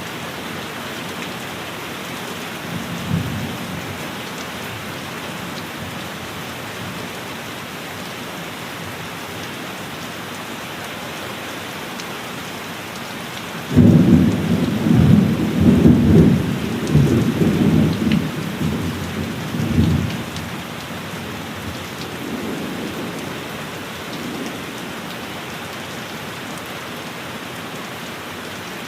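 Steady heavy rain with thunder. There is a short low rumble about three seconds in, then a sudden loud thunderclap about halfway through that rumbles on in waves for some six seconds before fading.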